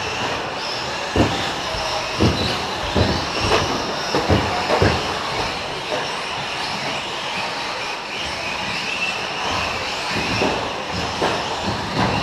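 A pack of electric 4WD short-course RC trucks racing on a dirt track, their brushless motors whining steadily. In the first five seconds or so, and a few times later, there are repeated sharp knocks and thumps.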